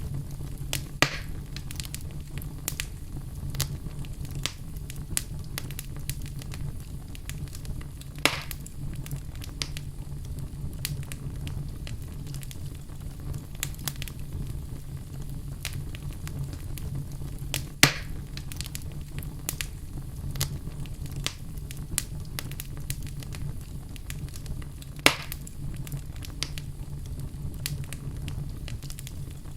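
Wood fire burning in a fireplace: a steady low rumble of flames with frequent crackles and a few sharp pops, the loudest about 1, 8, 18 and 25 seconds in.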